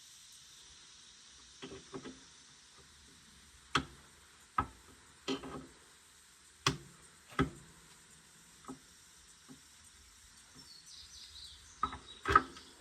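Irregular sharp clinks and knocks of hand tools and metal parts being handled while working on a skid steer, about a dozen strikes spread out, the loudest near the end.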